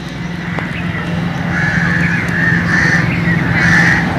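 Birds calling repeatedly, in short wavering calls that begin about a second and a half in, over a steady low hum.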